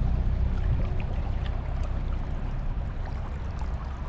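Fast river current rushing steadily, with a deep rumble underneath.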